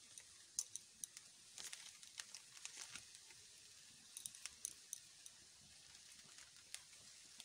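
Near silence with faint, scattered crackles and ticks from rice frying in ghee in a pan.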